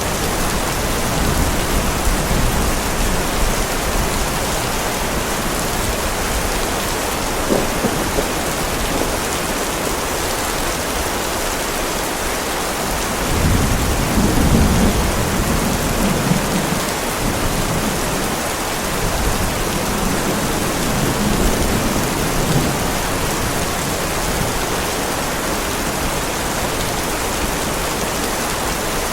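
Heavy rain falling steadily with thunder rumbling low underneath, a long rolling rumble swelling about halfway through and fading over several seconds.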